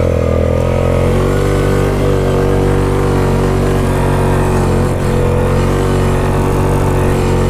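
Yamaha Grizzly 660 ATV's single-cylinder four-stroke engine running at fairly steady revs, its pitch shifting slightly about a second in.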